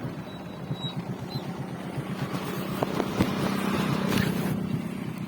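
A small engine running steadily at low speed, with an even throbbing beat.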